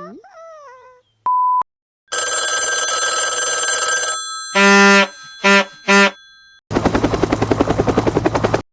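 A quick succession of stock sound effects standing in for animal sounds. First a short pitched call that glides up and down, then a brief steady beep. A two-second noisy burst with high ringing tones follows, then three short horn-like honks. It ends with about two seconds of fast-pulsing bell ringing, like an old telephone bell.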